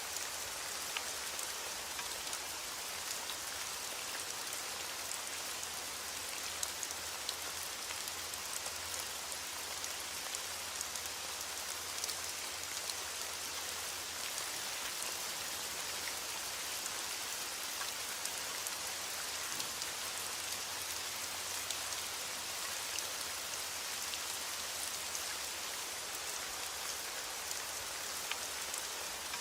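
Steady rain falling, a constant hiss with many small drops ticking on a surface.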